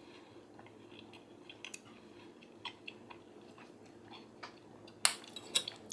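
A person chewing a mouthful of barbecue shredded chicken sandwich: soft, irregular mouth clicks, with two louder, sharper sounds near the end.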